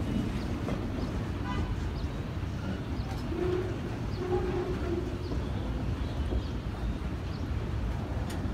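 A long train of loaded flatcars rolling past, a steady low rumble of wheels on rail. A bird calls a few short low notes about halfway through.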